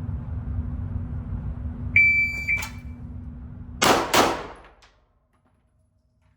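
A shot timer's start beep, followed about two seconds later by two pistol shots fired in quick succession, about a third of a second apart: a timed draw to a first shot and a fast follow-up shot.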